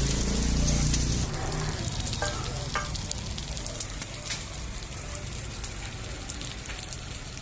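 Food sizzling and crackling in hot oil on a street-stall tawa griddle, a steady dense hiss. A low hum underneath cuts out about a second in.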